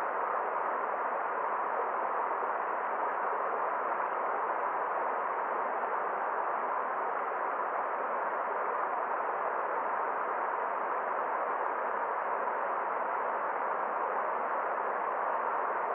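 Forest stream: a steady, even rush of flowing water with no changes.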